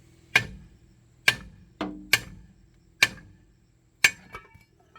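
Hammer blows on metal: five sharp, even strikes a little under a second apart, each with a short metallic ring.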